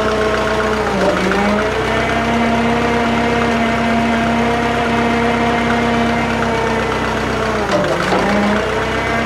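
Drott 85RM2 crane's engine running steadily. Its pitch sags briefly twice, about a second in and again near the end, then recovers, as the hydraulics take load during the lift.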